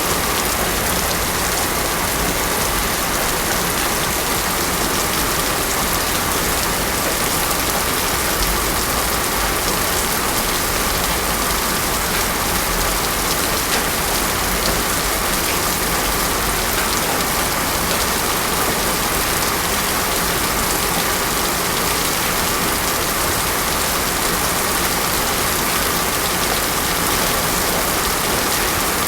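Heavy rain pouring steadily onto a road, a dense, even hiss with no let-up.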